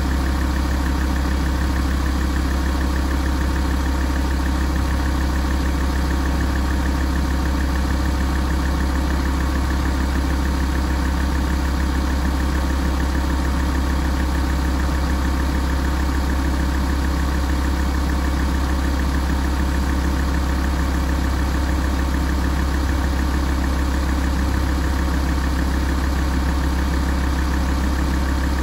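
Alfa Romeo 166 2.4 JTDm five-cylinder turbodiesel idling steadily while warming up.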